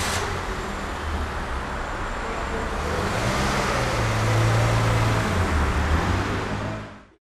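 Peugeot 206 car engine running just after starting, growing louder partway through as the car pulls away, then cutting off abruptly near the end.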